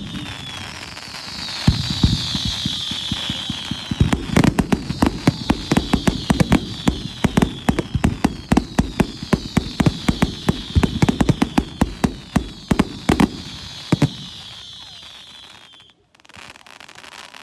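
Fireworks display going off: a high hiss that falls in pitch repeats every couple of seconds, then a dense volley of sharp bangs runs for about ten seconds before stopping, leaving the hiss to fade out.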